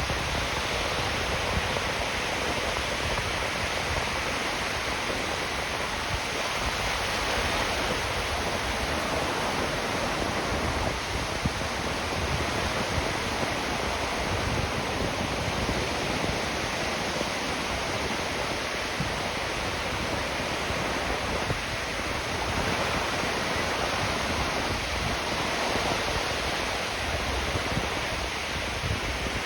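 Ocean surf breaking and washing up on a sandy beach, a steady wash of noise with no single wave standing out.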